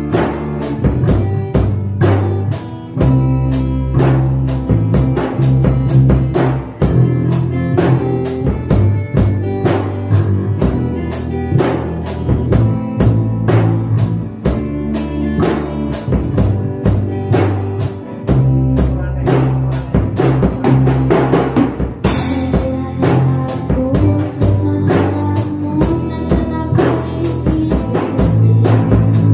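Instrumental passage of a pop song cover played by a band. A drum kit keeps a steady beat over a stepping bass line, with a cymbal crash about two-thirds of the way through.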